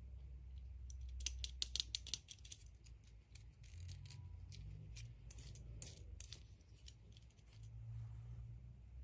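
Unboxing handling sounds: a quick run of sharp clicks and snips about a second in, then scattered single clicks that stop about two-thirds of the way through. A low hum runs underneath.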